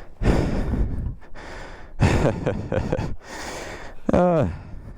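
A person breathing hard in heavy, noisy breaths, out of breath from physical exertion. About four seconds in comes a short voiced groan that falls in pitch.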